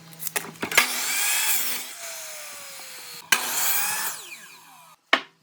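A tool cutting into wood in two passes of about a second each, with a few clicks before and a sharp knock near the end.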